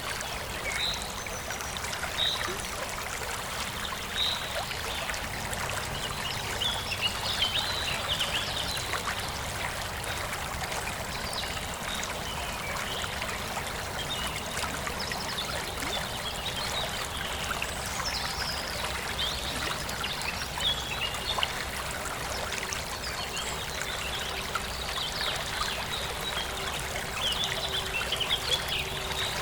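Forest stream flowing and trickling steadily, with small birds chirping now and then, in clusters about a quarter of the way in and near the end.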